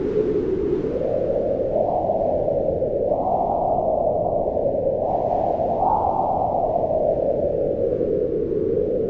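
Howling mountain wind: a steady rushing moan whose pitch climbs over the first few seconds, peaks about six seconds in, then sinks again.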